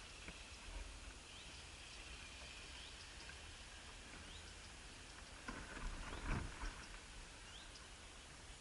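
A small bird repeating a short, thin, upward-sweeping call note about once a second, faint against steady background noise. About two-thirds of the way through there is a brief rustling scuffle.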